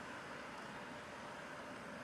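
Faint, steady background hiss: room tone with no distinct sound events.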